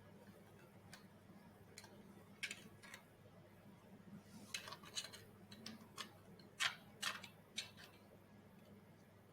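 Irregular small clicks and taps of robot head parts and screws being handled and fitted while an earpiece is fastened in place, the loudest two close together about two-thirds of the way in. A faint steady hum lies underneath.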